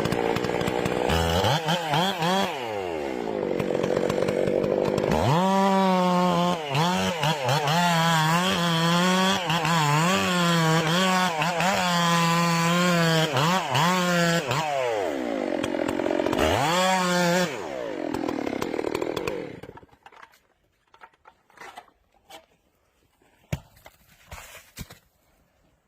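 Chainsaw running under load, cutting wood, its engine pitch repeatedly dipping and recovering. There are revving glides near the start and again near the end. It stops suddenly about 20 seconds in, leaving only faint scattered knocks.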